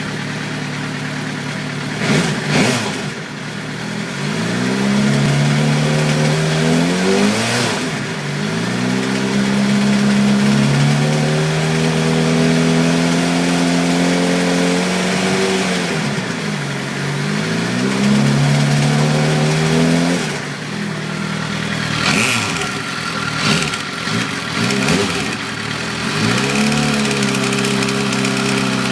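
Suzuki GSX-R 750 inline-four engine revved repeatedly: the pitch climbs and holds steady for a few seconds at a time, then drops back, several times over. Later there is a run of quick, short throttle blips before it settles back toward idle.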